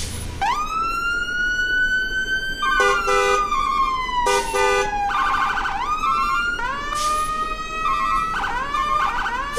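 Electronic siren sound: a wailing tone rises, holds and then slides down, again and again, with short repeated beeps in between.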